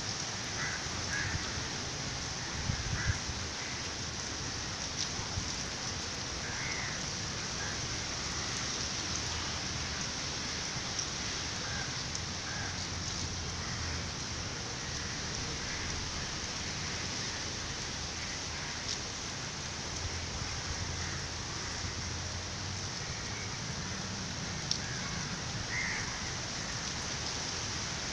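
Steady rain falling on a flat, puddled rooftop terrace: an even hiss of drops, with a few sharper drip ticks now and then.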